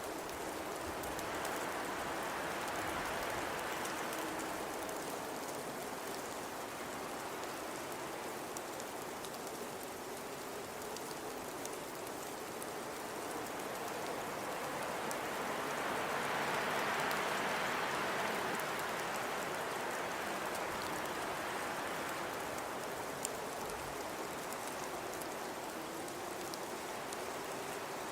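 Blizzard wind, a steady hiss that swells twice in gusts, with a faint wavering howl underneath.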